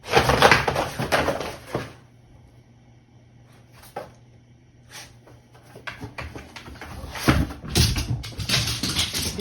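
A beagle digging and scratching hard with its front paws at its bed, in bursts: a burst at the start, a couple of short scrapes in the middle, then fast continuous scratching over the last few seconds.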